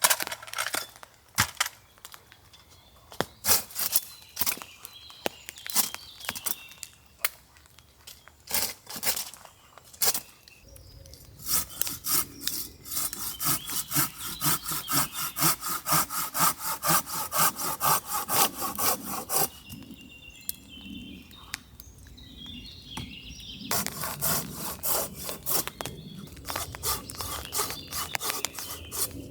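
Hand saw cutting through a dry log, with irregular strokes at first, then a steady back-and-forth run of about two strokes a second, a pause, and more strokes near the end. The blade is getting dull, so the cut goes slowly.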